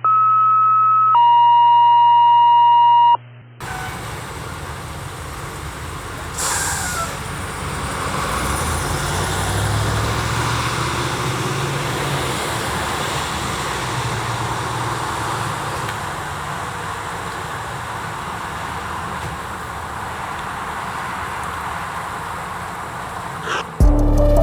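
Two steady electronic tones, the first higher and the second lower, for about three seconds. Then a fire department command car drives by, its engine and tyre noise swelling to a peak and slowly fading.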